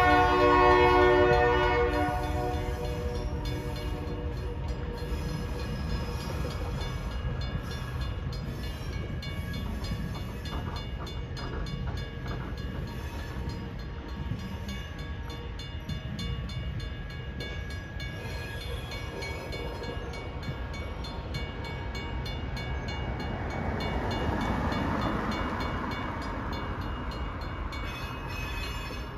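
A locomotive's K3LA air horn sounds a loud blast that cuts off about two seconds in. The train then rumbles steadily, swelling louder again late on.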